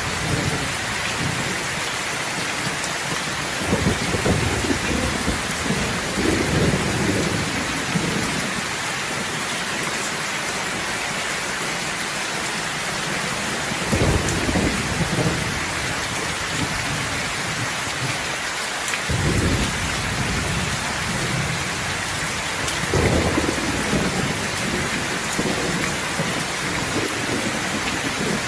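Steady rain falling, with low rolls of thunder rumbling through it several times.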